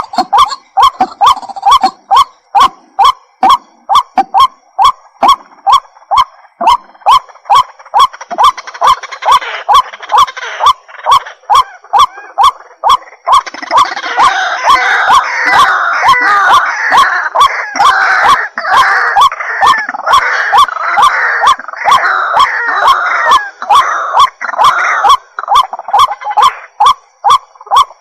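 White-breasted waterhen calling: a long run of short, sharp notes repeated about two to three times a second, with a denser stretch of overlapping, busier calls through the middle before the plain repeated notes return near the end.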